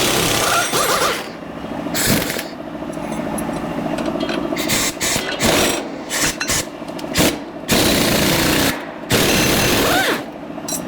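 Impact wrench run in repeated bursts, some about a second long and others short blips, with brief pauses between them.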